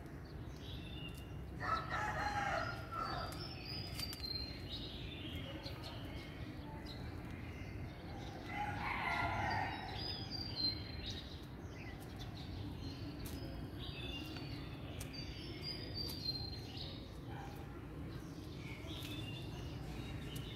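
Birds calling: two longer, louder calls about two seconds in and again about nine seconds in, over frequent short high chirps.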